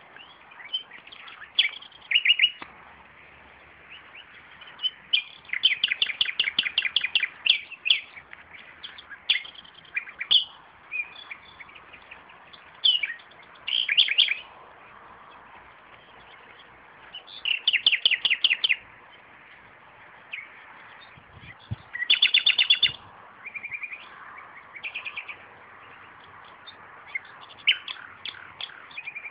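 Nightingale singing: loud phrases separated by pauses of a second or more, several of them fast runs of the same note repeated, about a dozen notes in a row.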